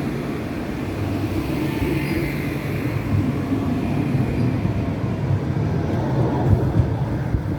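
Tram running with a steady low rumble and hiss, with a few clunks near the end.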